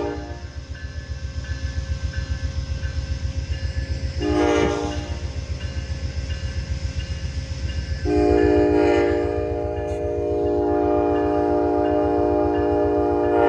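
Amtrak P42 diesel locomotive sounding its multi-tone horn as the train pulls out: the end of a blast at the start, a short blast about four seconds in, then a long blast from about eight seconds in to the end, over the steady rumble of the locomotive's diesel engine.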